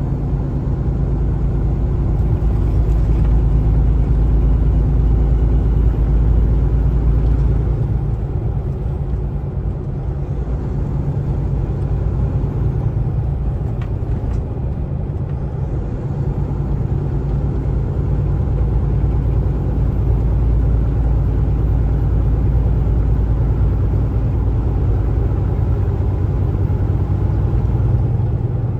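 Kenworth T680 semi truck driving at road speed: a steady low diesel engine drone with tyre and road rumble.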